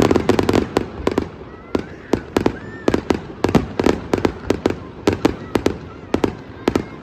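Fireworks display: a rapid, irregular string of sharp bangs and cracks, about three or four a second.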